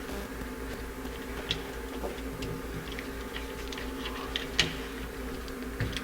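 Light clicks and taps of a screwdriver and metal screws as the float-bowl screws of a single-barrel carburetor are snugged down, the sharpest tap about four and a half seconds in, over a steady low hum.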